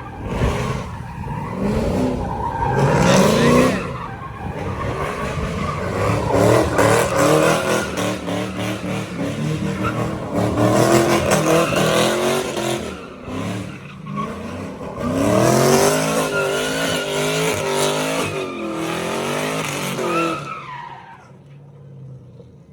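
A vehicle's engine revving hard with tires squealing, the pitch wavering up and down in repeated surges, dying away near the end.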